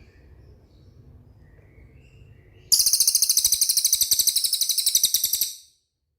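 Cililin bird singing a rapid, very high-pitched trill of fast repeated notes, lasting about three seconds. It starts suddenly about two and a half seconds in and cuts off abruptly. Faint scattered chirps come before it.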